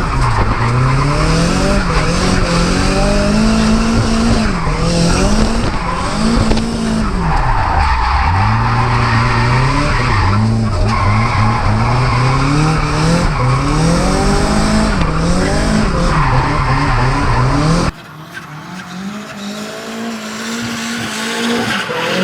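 Nissan S14's SR20DET turbocharged four-cylinder engine revving up and down through a drift run, the pitch climbing and falling repeatedly, with the tyres skidding and squealing. About 18 seconds in, the sound cuts abruptly to a quieter car sound.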